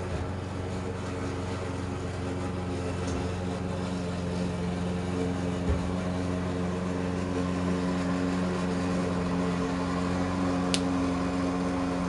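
Steady mechanical hum of a running room appliance such as a fan, with a low knock about halfway through and one sharp click near the end.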